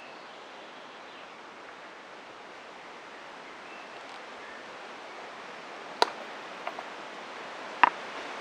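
A steady outdoor rushing hiss, slowly growing a little louder, with two sharp snaps, one about six seconds in and one near the end.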